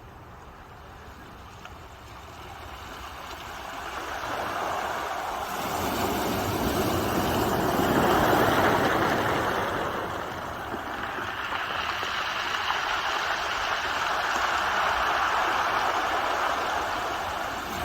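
Ocean waves washing ashore: a rushing surge that builds, crests about eight seconds in, eases off, and then swells again in a broader second wave.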